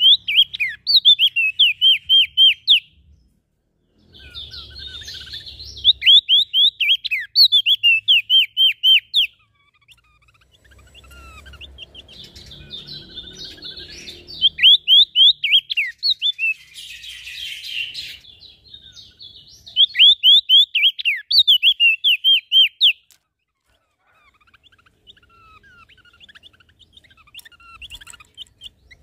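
Small songbirds singing in repeated bursts of rapid, sharp downslurred chirps, each burst lasting two to three seconds, with softer chattering between them.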